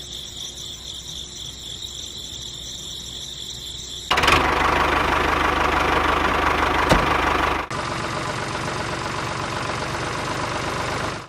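Small electric motor of a homemade model machine running, with a steady high whine. About four seconds in it cuts abruptly to a louder, rougher rattling run, which drops back to a steadier, quieter running near eight seconds.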